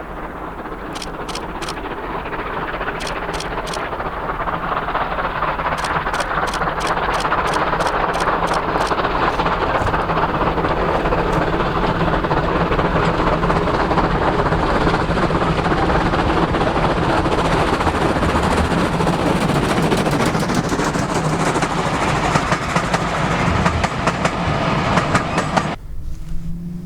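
Steam-hauled train passing close on the line, growing louder over several seconds with a regular beat that quickens, then holding loud; the sound cuts off suddenly near the end.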